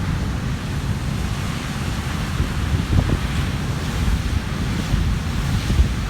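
Large ocean waves breaking and churning on a rocky shore at high tide: a continuous rushing surf with a deep rumble and a couple of louder surges, about three seconds in and near the end. Wind buffets the microphone throughout.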